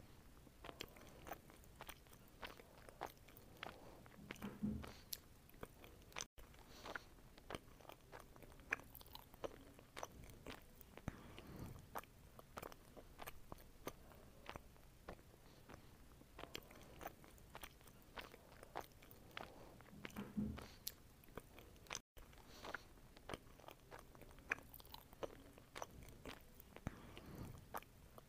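Faint close-up eating sounds of someone biting and chewing fruit: a steady run of small wet clicks and crisp crunches, with two momentary breaks where the sound cuts out.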